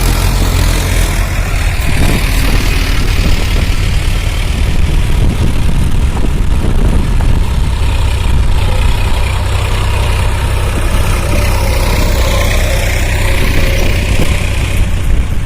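Tractor engine running steadily with a constant low rumble.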